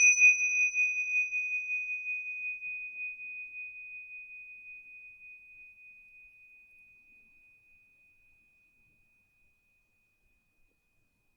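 Meditation bell ringing out after a single strike: one clear high tone with a gentle pulsing wobble, fading slowly over about ten seconds while its higher overtones die away within the first couple of seconds. It is the closing bell that ends the meditation.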